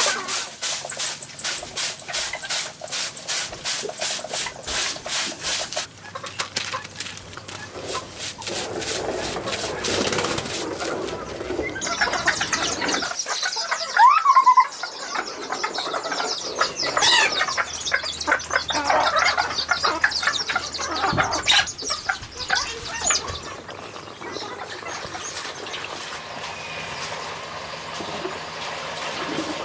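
Quick, even rubbing strokes for about the first six seconds, then irregular work clatter with chickens clucking, and a short rising call about halfway through.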